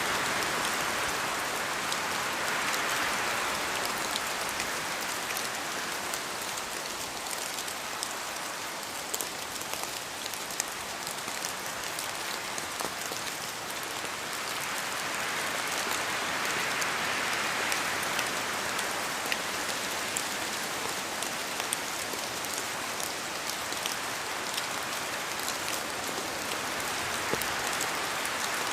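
Steady rain falling in a forest: a dense hiss full of fine drop ticks, swelling gently twice as the wind rises.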